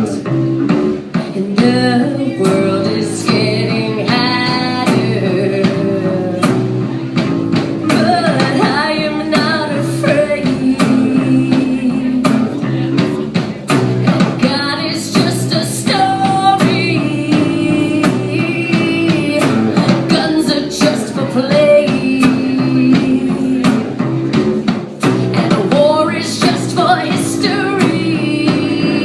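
Live rock band playing with a singer: vocals over guitar and a drum kit, heard through a phone's microphone in the room.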